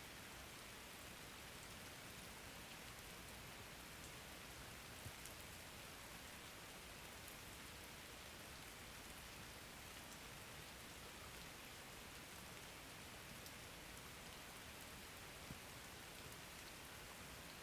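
Soft, steady rain, an even hiss with the occasional single drop tapping.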